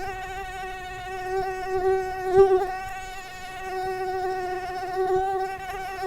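Mosquito in flight: a continuous high whine from its beating wings, wavering slightly in pitch and swelling louder and fainter, loudest about two and a half seconds in.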